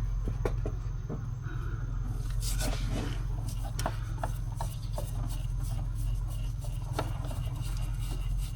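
Hands unscrewing a spin-on oil filter from an engine: rubbing and scraping with scattered light clicks and knocks, a short scrape about two and a half seconds in, over a steady low hum.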